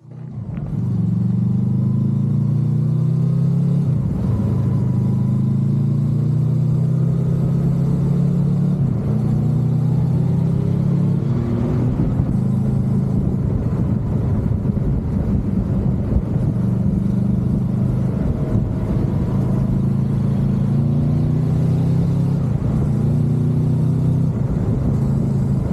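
Motorcycle engine running while riding, its note stepping up and down several times as it changes gear, with a steady rush of road and wind noise underneath.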